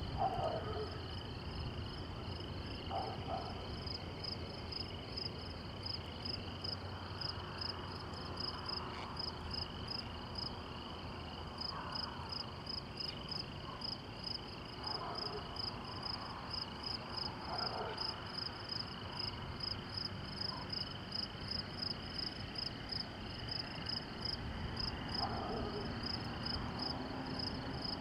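Night insects chirping in a steady, evenly pulsing chorus, about two to three pulses a second, with a second, lower-pitched insect call pulsing beneath it.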